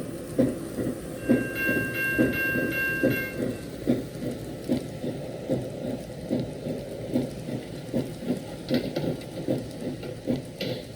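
Recorded passenger-train ride sound from a KATO model-railway sound card: steady rhythmic clickety-clack of wheels over rail joints. A faint, steady chord of several tones, like a horn, sounds for about two seconds shortly after the start.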